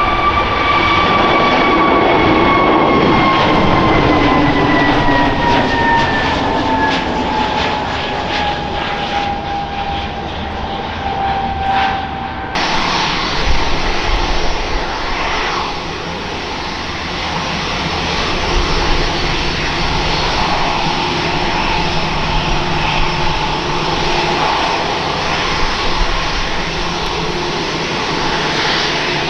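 Jet airliner engines running loud. Their high whine slowly falls in pitch for the first twelve seconds or so. Then, after an abrupt cut, a steady engine rumble and whine continues.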